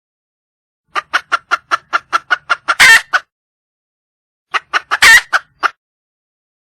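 Red junglefowl hen calling for a male: a quick run of short clucks that ends in one louder drawn-out call, then a second, shorter run of clucks with another loud call and two last clucks.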